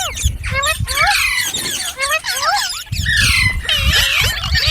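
Green parrots chattering and squawking: many quick, overlapping calls that rise and fall in pitch. A low rumble joins about three seconds in.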